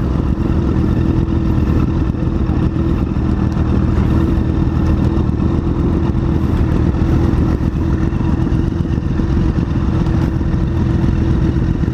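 Motorcycle engine running at a steady, unchanging pitch while the bike is ridden.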